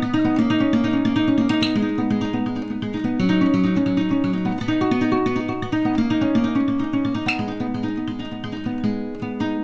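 Background music: acoustic guitar playing a steady run of quickly plucked notes.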